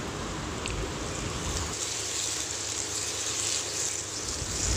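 Chicken pieces in masala frying in a nonstick pan on high flame: a steady sizzle, stirred with a spoon near the end.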